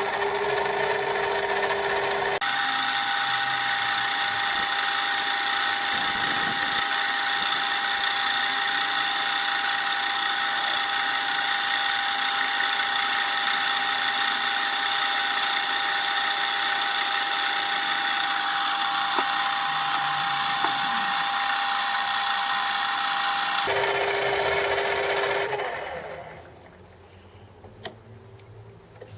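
Metal lathe running steadily while a cutting tool turns down the outside of a bronze bush on a mandrel, a steady whine over a cutting hiss. The whine jumps in pitch a couple of seconds in and back again near the end, and then the machine falls quiet.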